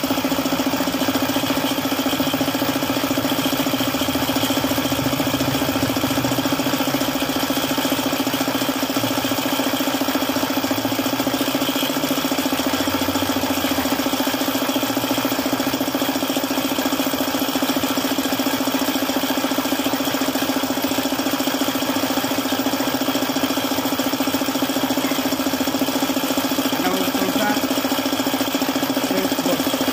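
Suzuki F6A three-cylinder engine idling steadily with a knock, which the mechanic puts down to an oil pump that has stopped working.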